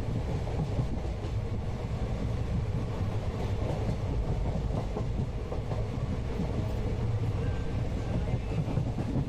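Steady rumble of a moving passenger train heard from inside the coach, with wheels clicking over the rail joints.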